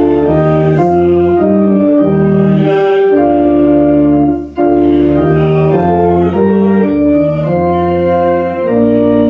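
Church organ playing a hymn tune in sustained chords that change every half-second or so, with a brief break between phrases about four and a half seconds in.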